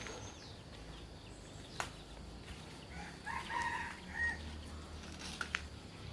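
A bird call lasting about a second, a little over three seconds in, over a low steady hum, with a few sharp clicks.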